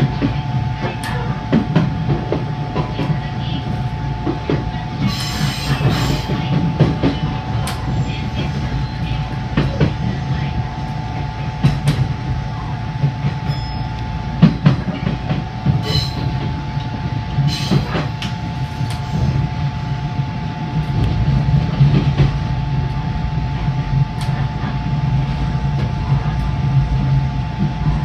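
JR East 583 series electric train running along the line, heard from inside its leading car: a steady running hum and a steady whine, with the wheels clicking over rail joints at irregular intervals.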